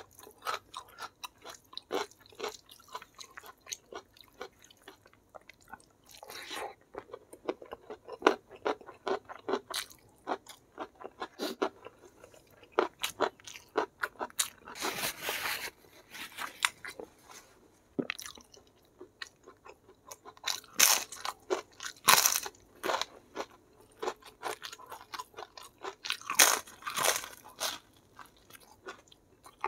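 Close-miked eating: a person chewing with many crunchy bites and mouth clicks, eating rice and fried chicken by hand. The loudest crunches come in clusters about halfway through and again near the end.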